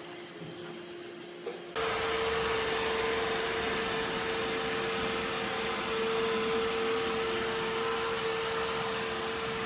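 iRobot Roomba Combo i5+ suction motor switching on about two seconds in, then running as a loud, steady rush of air with a steady whine, and cutting off suddenly at the end.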